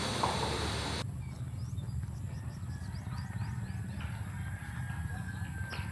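Outdoor ambience of faint bird chirps over a steady low rumble, coming in after a loud noisy wash cuts off suddenly about a second in.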